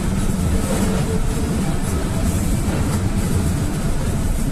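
Loaded GAZelle van on the move, engine running on petrol, heard from inside the cab: steady engine drone and road rumble.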